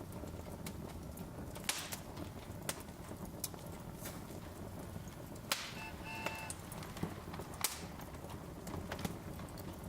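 Log fire crackling in a fireplace: a steady low rumble of burning with sharp pops and snaps every second or so. A short faint tone sounds a little past halfway.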